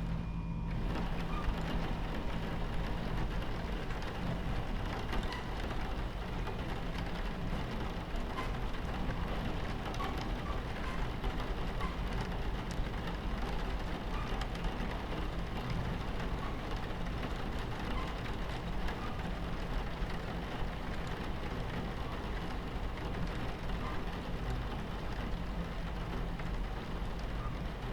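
Rain against a train window over the steady low rumble of a moving train on its tracks.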